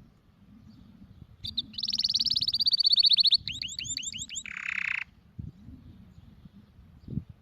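Canary singing one phrase about a second and a half in: a fast trill of rapidly repeated high notes, then a slower run of falling notes, ending in a short harsh buzz. A faint low knock comes near the end.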